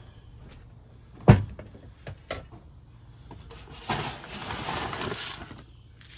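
Birdseed tub and seed bag being handled: a sharp knock about a second in, a couple of lighter clicks, then about two seconds of rustling.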